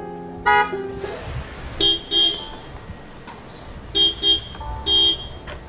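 Hella car horn sounding in short blasts: two quick toots about two seconds in, two more about four seconds in, then a slightly longer one near the end.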